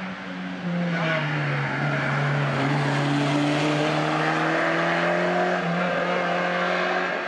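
Renault 8's rear-mounted four-cylinder engine driven hard as the car comes through the bend and past. The engine gets suddenly louder just under a second in, its note drops briefly, then climbs steadily as the car accelerates away up the hill.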